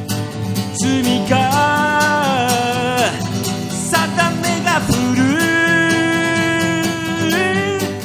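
Acoustic guitar strummed in a steady rhythm under a man's singing voice holding long notes that slide between pitches.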